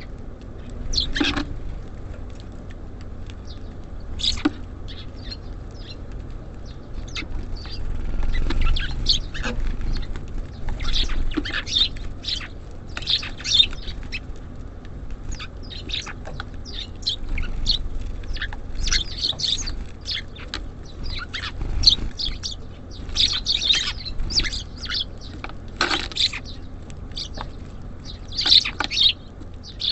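Small songbirds chirping at a bird feeder: many short, quick calls throughout, with a few sharper taps among them, over a steady low rumble.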